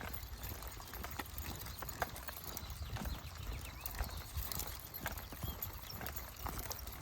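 Footsteps of a person walking with a pack of dogs on a trail: irregular short clicks and scuffs of feet and paws, over a steady low rumble.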